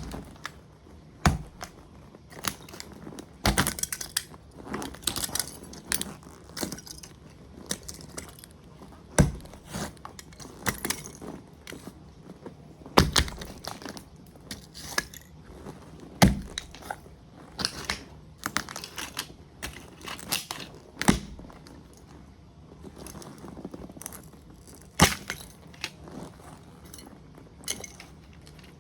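A model truck crushed underfoot by a motocross boot, cracking and snapping apart in a series of sharp breaks at irregular intervals, with lighter crunching and crackling between them.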